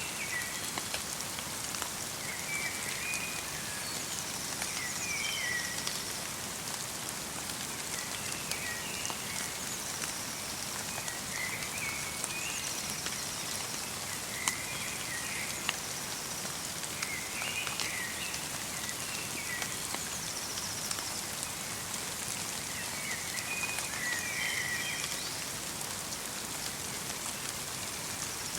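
Light rain pattering steadily in a forest, with a bird repeating short chirping phrases every two to three seconds.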